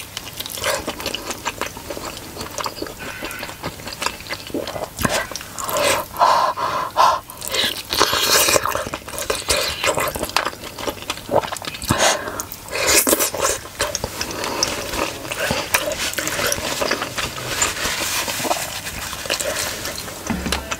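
Close-miked chewing of a large steamed pork dumpling (momo) dipped in tomato chutney, with a steady run of irregular wet mouth clicks and squelches.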